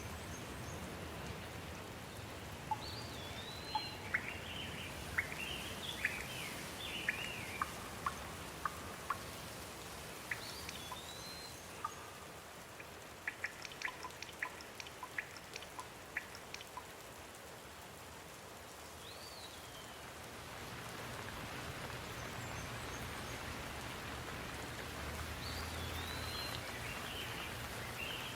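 Steady rain falling, with songbirds singing in short phrases of rising and falling notes on and off, and a run of sharp drip-like ticks near the middle. The rain grows louder about two-thirds of the way through.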